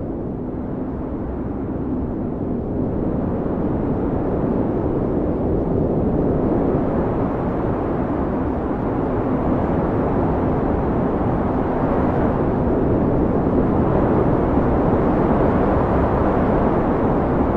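Blizzard wind blowing hard as a steady, deep rush with slow swells, growing a little louder in the second half.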